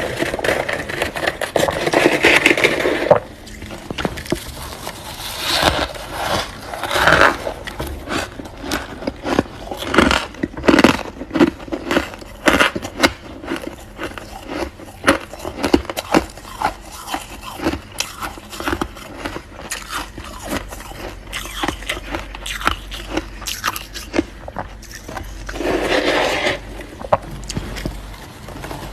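Freezer frost being scraped and bitten, with many sharp crunches as the ice is chewed; longer scraping stretches come at the start and again near the end.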